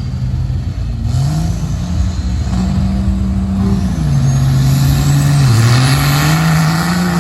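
P-pumped 24-valve Cummins diesel truck engine running hard through a sand drag pass. Its pitch steps up and down, and a high whine rises steadily through the second half as it gets louder.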